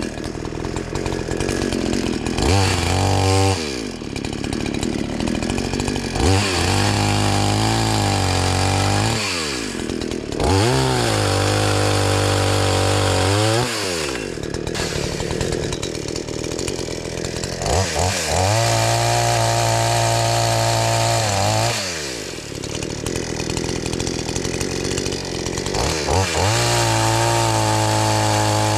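Two-stroke chainsaw cutting firewood. It is opened up to full throttle for several seconds at a time, about five times, dropping back to idle between cuts.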